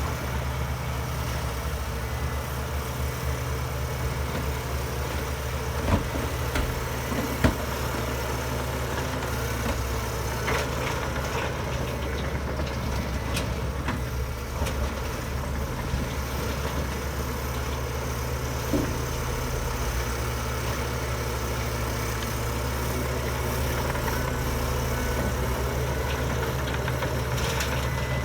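Heavy diesel engine of earthmoving machinery running steadily at low revs, with two sharp metallic knocks a few seconds in and lighter clanks later.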